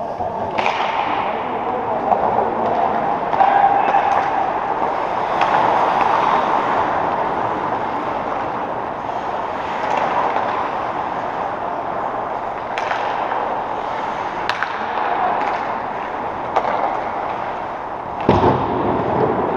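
Echoing arena din of a game in progress, with sharp knocks or cracks of play about five times.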